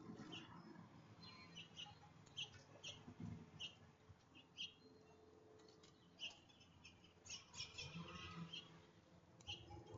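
Faint, short bird chirps from small feeder songbirds, repeating every half second to a second, with a busier flurry of calls about seven to eight seconds in.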